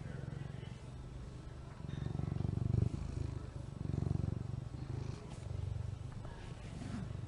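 A woman's voice imitating a cat's purr: a low, continuous rumble that rises and falls in slow swells.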